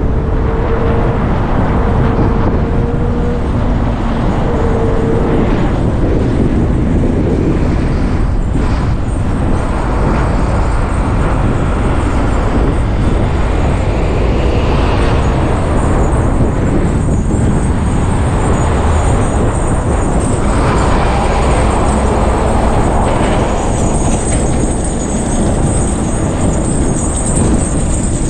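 Steady rumble of a moving vehicle: road and wind noise at driving speed, with a few short steady tones in the first five seconds.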